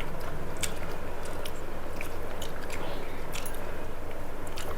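A person chewing food, with many small scattered mouth clicks over a steady low hum.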